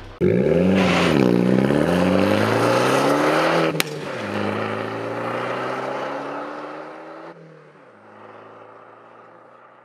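Alfa Romeo MiTo's engine revving: the pitch dips and then climbs over the first few seconds, with a sharp click near four seconds as the revs drop. The engine note then holds fairly steady and fades away.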